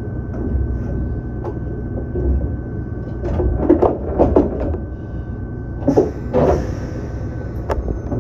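Electric train standing at a platform, its equipment humming steadily, while the doors close with a run of clunks and rattles. About six seconds in comes a burst of compressed-air hiss, then a sharp click near the end, as the train gets ready to depart.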